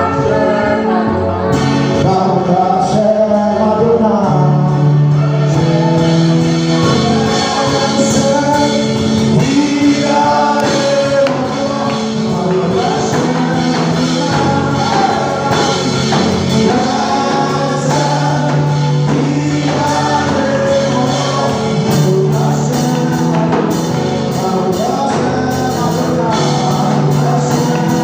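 Gospel worship music: a choir of voices singing over instrumental accompaniment.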